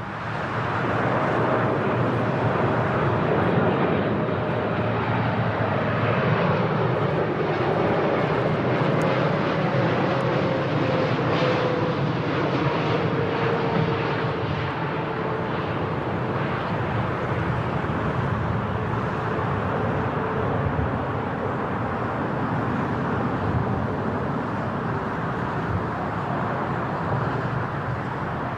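Military aircraft flying past: a steady engine roar with a faint whine that slowly falls in pitch through the middle as it goes by.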